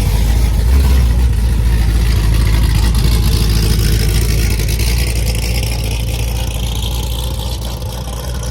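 A car engine running with a deep, steady low rumble that slowly fades over the last few seconds.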